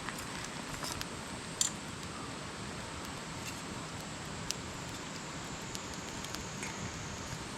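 Wood campfire burning: a steady hiss with scattered sharp crackles and pops, the loudest about one and a half seconds in.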